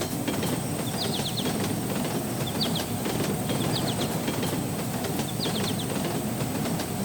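A vehicle's steady rumble, with small groups of short high chirps repeating about every second and a half.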